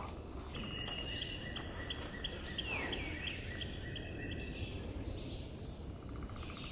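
Woodland ambience: a steady outdoor hiss with a bird giving short, high chirps, about three a second, for a few seconds, and one falling whistled note near the middle.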